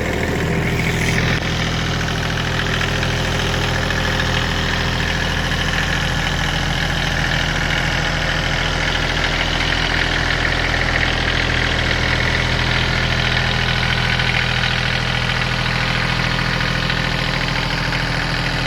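Kubota B8200 compact tractor's three-cylinder diesel engine running steadily at an even speed.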